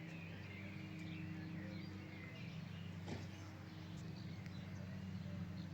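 Birds chirping here and there over a steady low hum.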